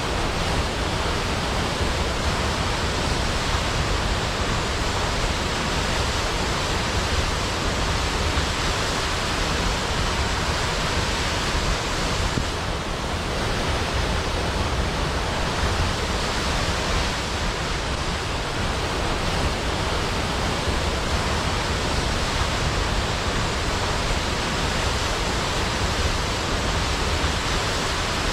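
A large waterfall pouring steadily into a pool below, a constant, even rush of falling water.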